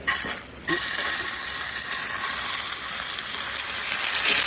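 Steak sizzling as it fries in a hot pan. The sizzle starts suddenly under a second in and then holds steady.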